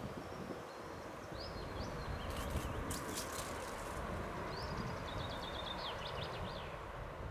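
A songbird singing two short phrases, each a quick run of high notes, over steady outdoor background noise, with a few sharp clicks about halfway through.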